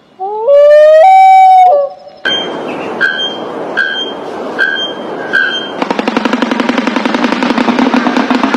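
A run of different animal calls: first a long call that rises in pitch and holds for about a second and a half, then five short notes repeated about every 0.7 s, then a fast rattling trill lasting about three seconds.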